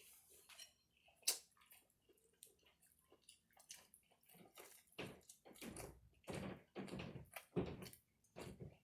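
Close-miked chewing of tender turkey leg meat: soft wet smacks and clicks of the mouth, with one sharp click about a second in and denser, louder chewing from about halfway through.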